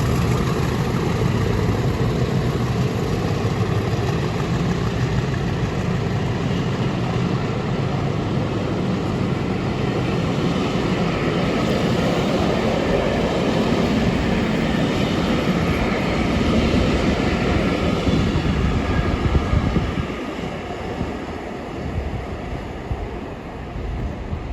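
Two Class 50 diesel locomotives, each with an English Electric 16-cylinder engine, running hard under power as they pull a train away, a steady heavy drone that fades away about twenty seconds in.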